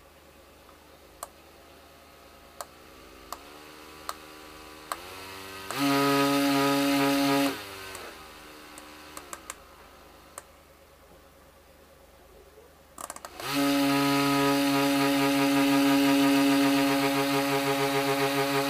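Small DC motor of a homemade table fan whirring: it spins up with a rising whine and runs loudly, stops and winds down, then starts again about thirteen seconds in and runs steadily. Sharp clicks come every second or so before each start.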